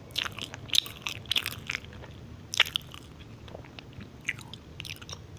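Close-miked mouth sounds of a person biting and chewing a chocolate chip muffin: a quick run of sharp, crunchy clicks in the first two seconds, another at about two and a half seconds, then scattered softer clicks.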